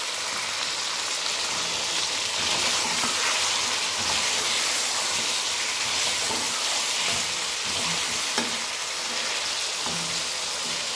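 Chicken pieces sizzling in hot oil in a metal karahi over high heat: a steady frying hiss. A slotted spatula scrapes and knocks lightly against the pan now and then as the meat is turned.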